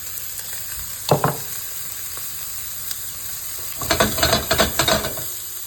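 Chopped onions sizzling in hot oil in a pan, with a short knock about a second in and a run of scraping and clattering near the end as they are stirred.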